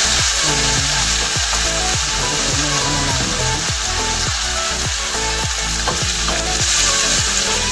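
Sliced onions and tomatoes sizzling in a frying pan as they are stir-fried with a wooden spatula. Background music with a steady beat plays underneath.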